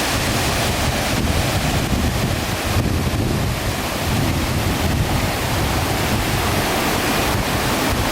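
Waterfall rushing steadily, with wind buffeting the microphone in low rumbles.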